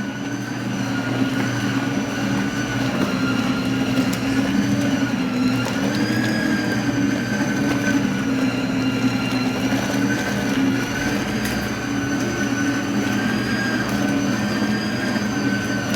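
Arno Lavette Maxx tanquinho washer running hard, its motor agitating a wash load with a steady hum and a whine that wavers slowly in pitch.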